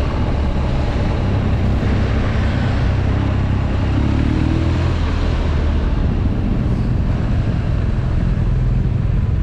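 BMW R nineT's boxer twin engine running steadily at low revs, with no clear revving.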